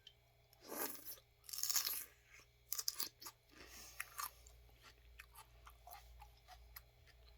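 A person biting into raw celery and chewing it: a few loud crunches in the first four seconds or so, then quieter chewing clicks.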